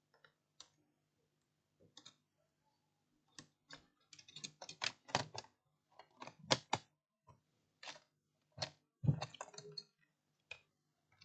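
Irregular plastic clicks and taps of laptop parts being handled and fitted back together, a few at first, then a quick run of them in the middle.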